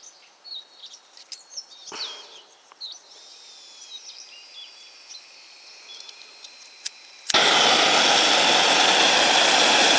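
Small birds chirping faintly, then about seven seconds in a homemade gas torch lights and burns with a sudden, loud, steady hiss of gas and flame.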